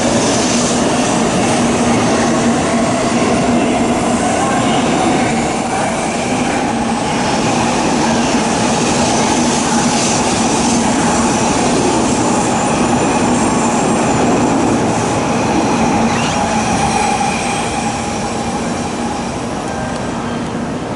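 Tokaido Shinkansen N700A train pulling out of a station, its running noise steady with a tone that rises gently as it gathers speed. The sound eases slightly near the end.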